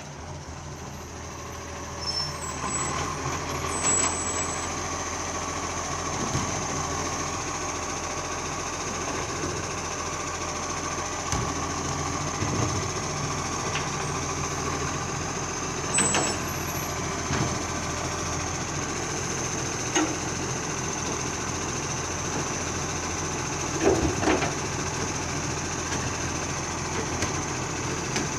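Garbage truck engine running steadily, with several short clunks over the top.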